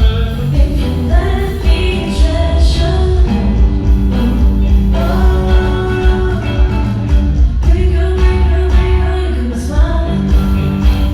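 Live band music with a singer, heard from backstage: heavy bass and a steady drum beat under the vocals.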